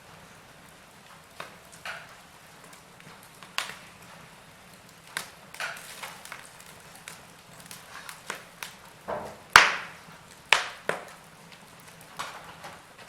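Wood fire crackling in a fireplace: irregular sharp pops and snaps over a soft hiss, with the loudest pops about three-quarters of the way through.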